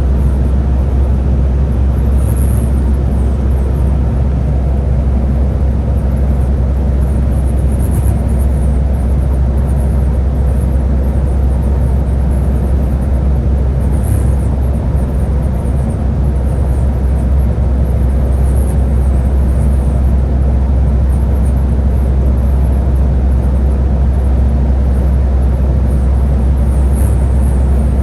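Scania Higer A30 city bus running with a steady low rumble of engine and road noise that stays even throughout.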